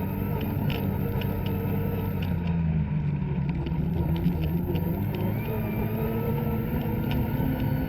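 Two-stroke snowmobile engine running steadily under load. Its pitch dips about two to three seconds in and climbs back by five seconds, with scattered light clicks over the engine.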